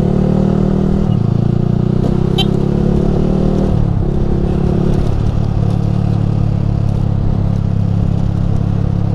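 Yamaha R15 V3's single-cylinder engine running through a Ronin Musashi aftermarket exhaust while riding, a steady note that shifts and settles lower about four seconds in.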